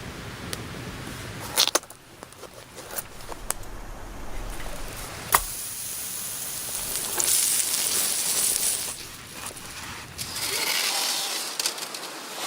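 Outdoor handling noises: a few sharp knocks and clicks, then two stretches of rustling.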